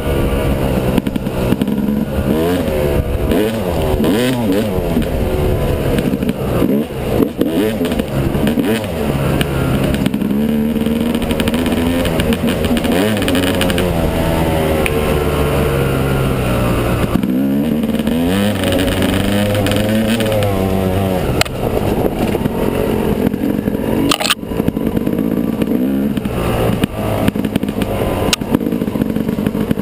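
Yamaha 250 dirt bike engine being ridden, its revs climbing and falling back over and over as the throttle is worked, with a brief let-off partway through.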